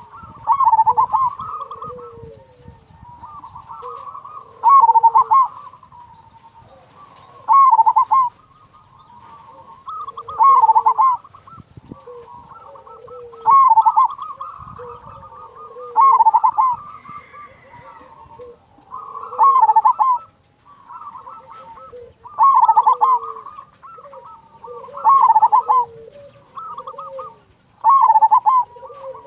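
Zebra dove (perkutut) cooing, a loud rhythmic phrase repeated about every three seconds, with softer lower coos in between.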